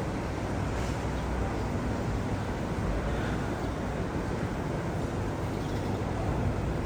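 Steady drone of an airliner in flight heard from inside the passenger cabin: engine and airflow noise, even and unchanging.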